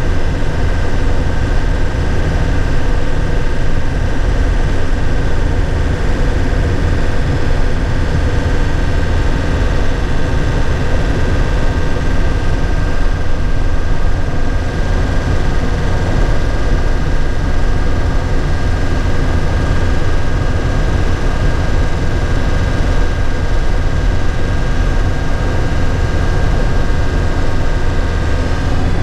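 Nissan Cabstar truck's 106 hp engine running at a steady pace, heard from the driver's cab, with a deep low rumble and no gear changes or revving.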